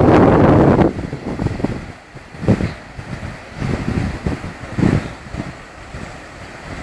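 Wind buffeting the microphone: a loud gust in the first second, then weaker, irregular gusts.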